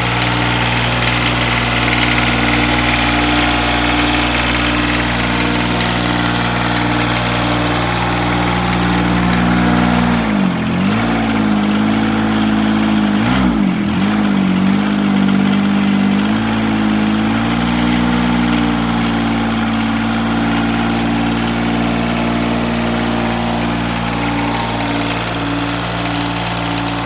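John Deere 455 garden tractor's three-cylinder diesel idling steadily just after a cold start at 15°F. Its note wavers briefly twice around the middle.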